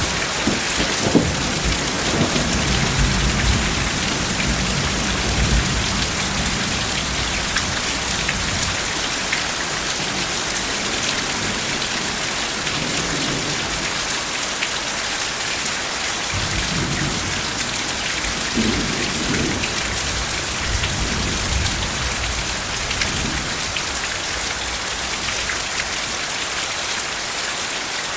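Steady heavy rain with distant thunder rolling low underneath, strongest over the first few seconds, then softer rumbles returning a few times.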